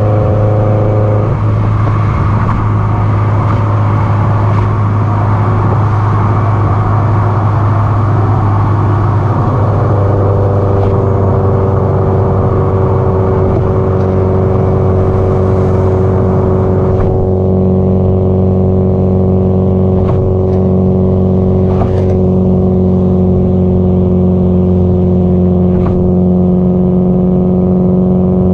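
Subaru Impreza WRX STI (GDB-E) turbocharged flat-four engine and aftermarket exhaust droning steadily while driven at speed, its pitch changing in the first few seconds and then holding and sinking slowly.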